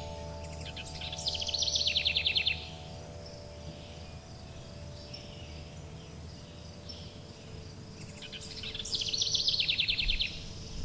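A songbird sings the same quick trilled phrase twice, about seven seconds apart, each lasting about a second and a half. Behind it, long held wind chime tones ring steadily over a low background hum.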